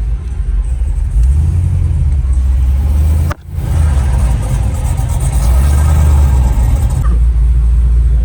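A truck on the move: a heavy low rumble of engine and road noise, with a sudden break about three and a half seconds in before it picks up again.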